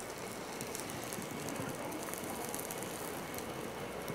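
Egg-soaked bread slices frying in a nonstick pan, a steady sizzle full of fine crackles as they brown.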